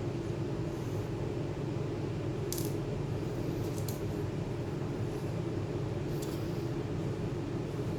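Steady low hum with a few light, sharp metallic clicks: one about two and a half seconds in, a couple near four seconds, and one about six seconds in.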